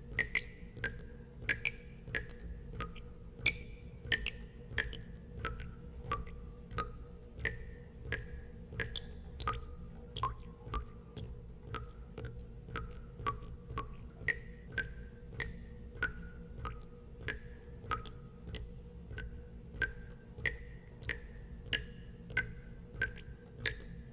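Water drops falling into water one after another, about two a second, each a short plink with a brief ring whose pitch changes from drop to drop. A steady low rumble runs underneath.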